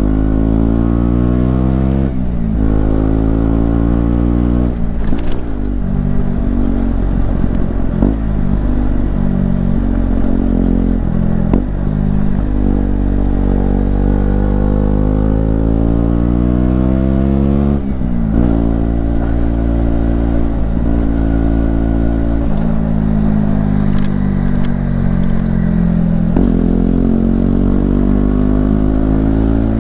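KTM Duke 125's single-cylinder engine pulling hard while riding. The revs climb and then drop sharply at each upshift, about two seconds in and again past the middle, and later ease off as the bike slows before picking up again near the end.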